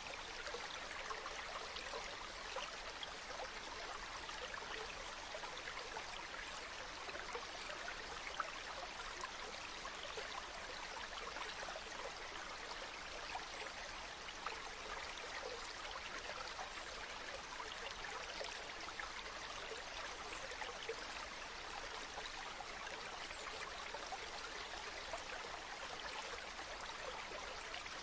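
Running water of a stream, a steady, unbroken splashing hiss.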